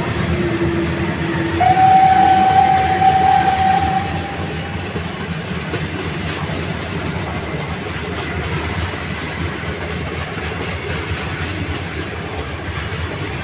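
A train passing with a steady low rumble while its horn sounds two held notes: a lower one, then a higher one from about a second and a half in to about four seconds. The rumble of the train runs on after the horn stops.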